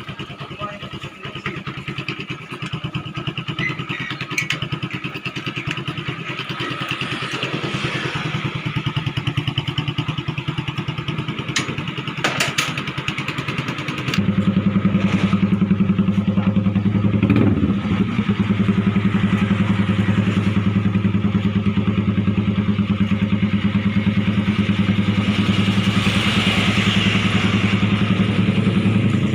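Motorcycle engine running through a shop-made aftermarket exhaust pipe with a steady, rapid pulsing note. About halfway through it becomes abruptly louder and deeper, then holds steady.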